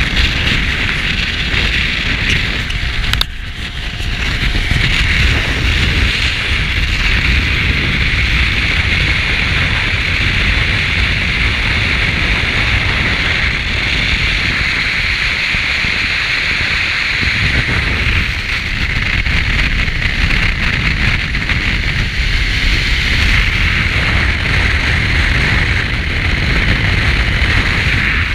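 Strong gusting wind buffeting an action camera's microphone while riding a motorcycle in a hard crosswind: a loud, continuous rush of wind noise. It drops briefly with a click about three seconds in.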